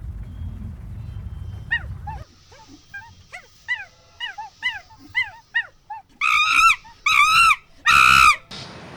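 Animal calls: a run of short, high, falling yelps, followed near the end by three longer, louder rise-and-fall cries.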